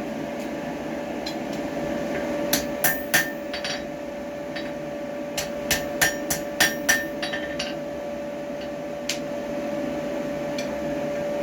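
Hand hammer striking hot steel on an anvil in two quick runs of ringing blows, with one last single blow near the end, while forging tongs. A steady hum runs underneath.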